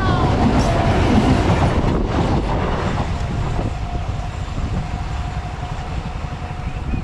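ICF Medha electric multiple-unit local train passing close by at speed, its wheels clattering over the rail joints with a heavy rumble. The rumble eases from about three seconds in as the last coaches clear and the train draws away.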